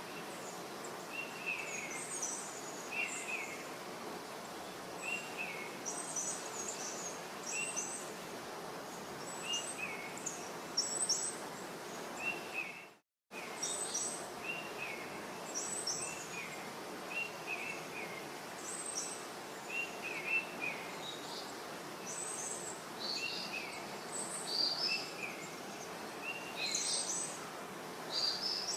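Outdoor nature ambience: small birds chirping in short, repeated calls over a steady background hiss. The sound drops out completely for a split second about halfway through.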